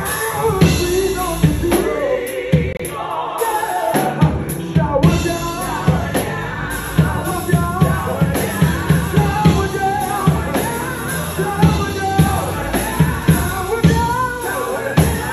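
Live gospel song: a singer's voice carrying a melody over a band with drum kit and bass, the drums keeping a steady beat.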